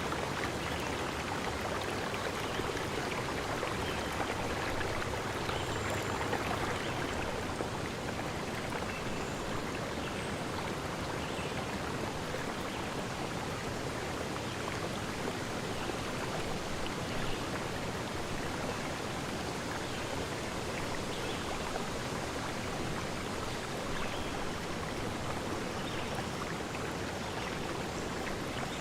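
Steady rushing of a forest stream, an even wash of water noise with no pauses.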